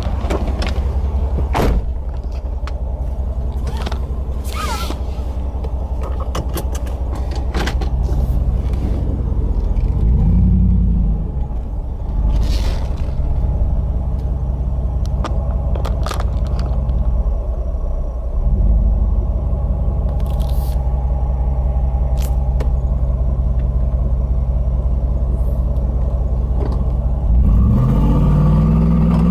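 A 5.7L VVT Hemi V8 in a Jeep Wrangler Unlimited, heard from inside the cabin with the windows down: a steady low engine note that swells and settles twice. Near the end it climbs in pitch as the engine revs up. Scattered sharp clicks and ticks come through over it.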